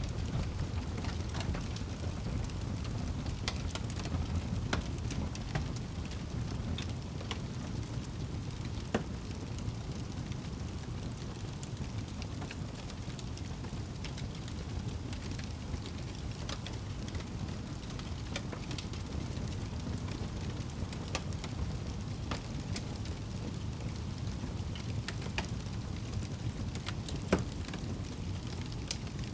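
Wood fire crackling in a fireplace: a steady low rumble of flames with scattered sharp pops and snaps, two louder pops about nine seconds in and near the end.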